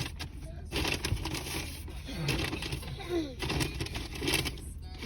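Indistinct voices with short rustling noises; a high voice rises and falls briefly near the middle.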